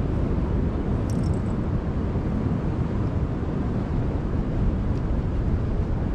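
Steady wind buffeting the microphone, with a brief sharp click about a second in.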